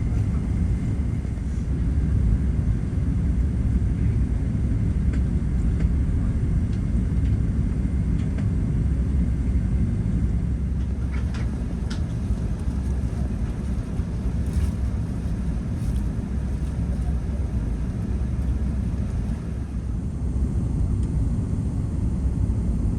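Steady low rumble inside the cabin of an Airbus A380 on the ground before takeoff, with a few faint clicks about halfway through.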